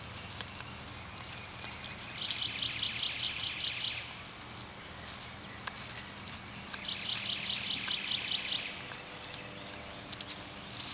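A bird's rapid, high pulsed trill, heard twice and lasting about two seconds each time. Faint crunching clicks come from a dog gnawing a pine cone in dry grass.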